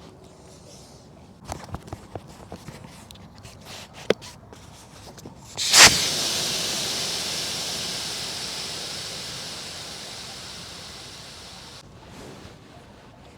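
A few light clicks and knocks, then a sudden loud rush of hissing that fades steadily over about six seconds before stopping abruptly.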